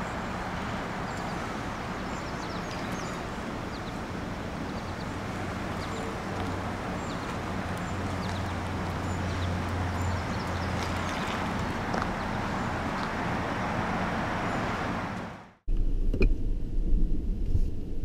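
Steady running noise of a Ford F-150 pickup creeping backward under Active Park Assist, with a low hum that swells for a few seconds in the middle. Near the end the sound cuts off abruptly and gives way to a lower, uneven rumble.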